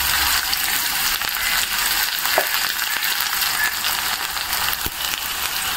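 Shallots frying in hot oil for a sambar tempering: a steady sizzle with light crackling.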